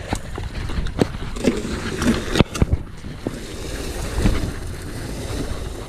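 Wind rumbling on the microphone, with a few sharp knocks about one and two and a half seconds in.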